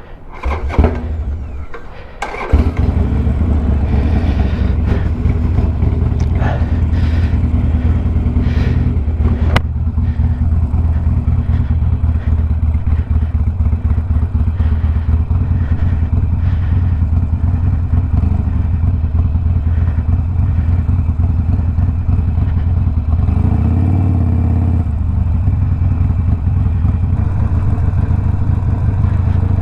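A Harley-Davidson Sportster Iron 1200's V-twin engine, stage-one tuned and breathing through a Two Brothers 2-into-1 exhaust, starts up after a few knocks about two and a half seconds in. It then runs steadily and loudly, with a brief rise and fall in pitch near the end.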